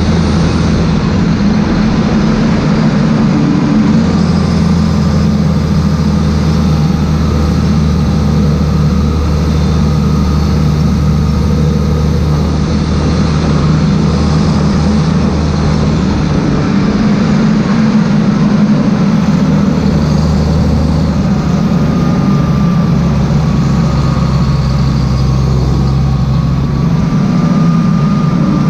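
Claas Xerion 3800 tractor's diesel engine running steadily, its low hum shifting slightly every several seconds, with a faint whine above it.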